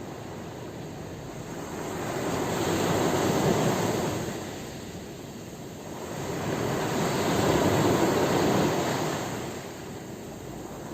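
Sea waves washing on the shore, the surf rising and falling in two swells about four seconds apart.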